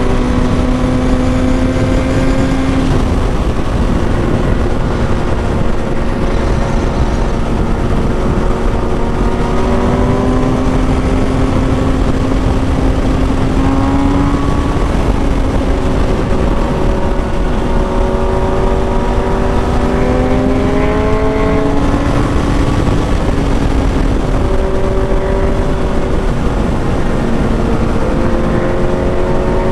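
Kawasaki Ninja ZX6R's inline-four engine running under way at cruising revs. Its pitch climbs and drops back several times with throttle and gear changes, over a constant rush of wind.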